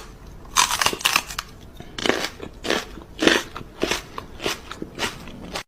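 Repeated crunching, like something crunchy being bitten and chewed, about one crunch every half second.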